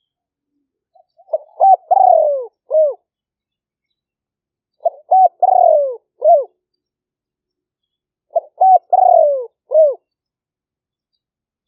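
Spotted dove cooing: three phrases, each a few short coos followed by a longer coo that falls in pitch, with about three and a half seconds between phrases.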